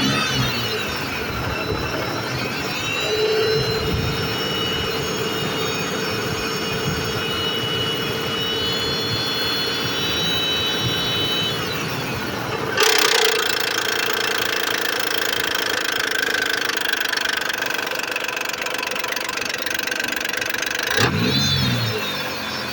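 Mitsubishi Pajero 2's 3.5-litre 6G74 V6 running with a knock, which the owner puts down to the hydraulic timing-belt tensioner. The engine note shifts abruptly a little past halfway and again near the end, with brief rises and falls in pitch around the start and the end.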